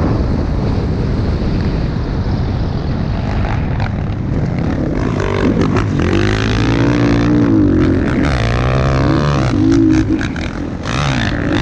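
Motocross dirt bike engines running. A dense roar at first, then engines revving, their pitch rising and falling again and again through the second half.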